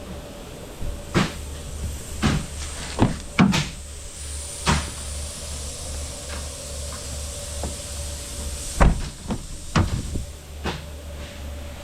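A series of irregular knocks and clunks, about eight in all, over a steady low hum.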